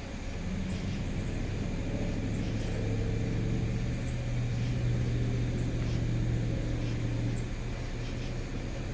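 Motor vehicle engine running at a steady low pitch, growing louder over the first few seconds and then fading out about seven seconds in.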